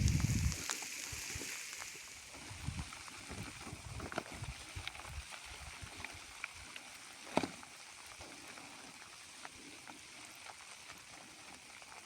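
Steady rain falling, with scattered light clicks and one sharper knock about seven seconds in. A low rumble fades out in the first half second.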